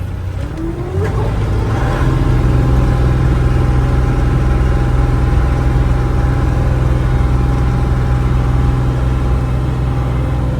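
Truck engine revving up as it pulls away, getting louder about a second in, then running at a steady speed.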